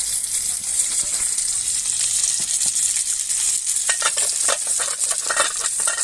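Steady high-pitched hiss with fine crackling, the crackle growing denser from about four seconds in.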